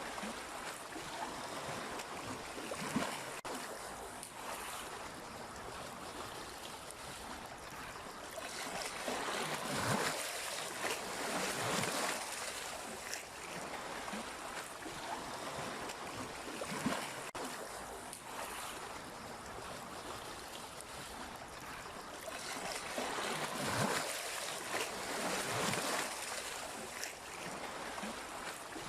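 Sea waves breaking and washing onto the shore: a steady rush of surf that swells louder every few seconds as each wave comes in.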